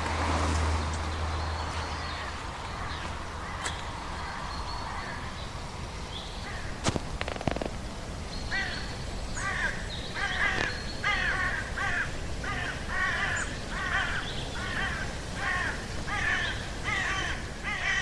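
Woodland outdoor ambience with a steady hiss and a sharp snap or two about seven seconds in. Then, from about halfway, a bird calls harshly over and over in a quick, even series of about one and a half calls a second, each call dropping in pitch.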